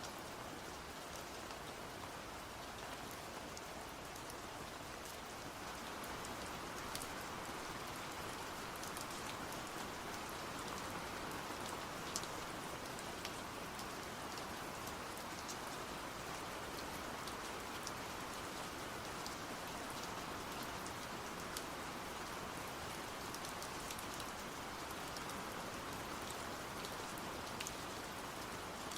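Steady rain falling, with occasional sharper drop ticks; it grows a little fuller about six seconds in.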